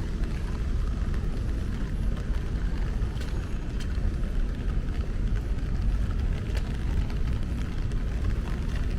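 City street in the rain: a steady low rumble of traffic, with faint scattered ticks of raindrops.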